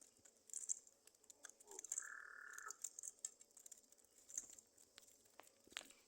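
Near silence with scattered faint taps, broken about two seconds in by one short, flat, buzzy bird call.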